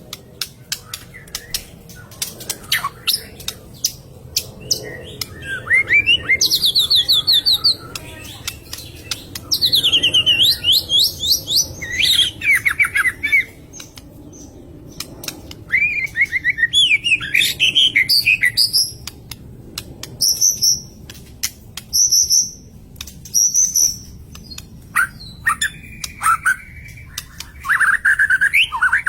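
White-rumped shama singing in bursts of varied whistled phrases and fast repeated sweeping notes, with sharp clicks between phrases. This is the agitated, combative song that bird keepers call 'emosi', typical of a fighter bird.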